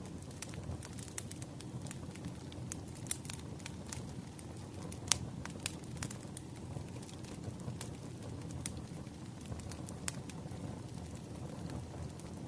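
Wood fire crackling: a steady low rumble of burning logs with frequent sharp pops, one louder pop about five seconds in.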